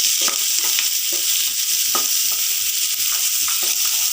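Onion, capsicum and spring onion whites sizzling in butter and oil in a frying pan, stirred, with frequent short scrapes against the pan.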